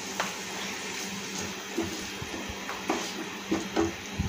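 Masala paste sizzling in oil in a non-stick frying pan, with several short knocks and scrapes of a wooden spatula stirring it. It is being fried until the oil separates.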